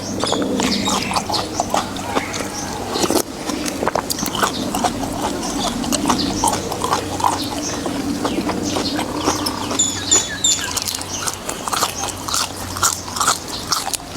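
Close-up eating sounds: a person chewing and smacking noodles and beef in soup, a quick run of wet clicks and smacks.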